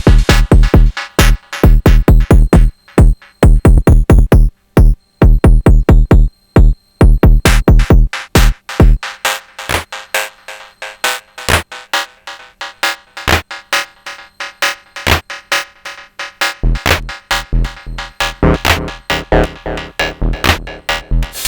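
Sonic Potions LXR-02 digital drum machine playing a techno beat of punchy kick drums and percussion. About nine seconds in the kick drops out, leaving only sharp clicky percussion hits. The kick comes back a few seconds before the end.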